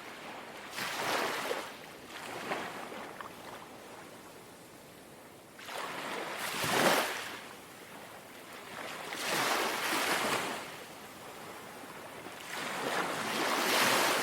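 Gentle sea waves lapping against the shore, each small wash swelling and fading about every three seconds, the strongest one about halfway through.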